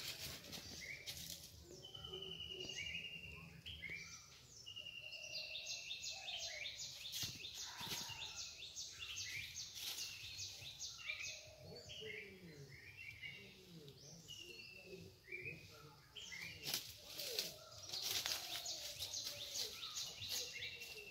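Wild birds calling and singing in the undergrowth: many short chirps overlapping, and a long whistle that falls slightly in pitch and recurs several times. From about five to eleven seconds in, a fast, even series of high ticks runs under the calls.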